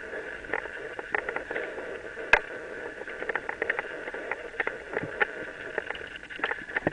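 Mountain bike rolling over a dirt trail: steady tyre and ride noise with many irregular clicks and rattles from the bike over bumps, and one sharp knock about two and a half seconds in.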